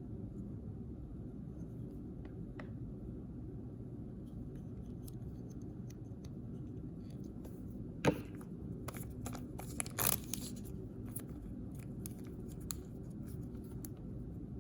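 Toy packaging being handled and opened by hand: one sharp click about eight seconds in, then a short cluster of crinkles and small clicks, over a steady low hum.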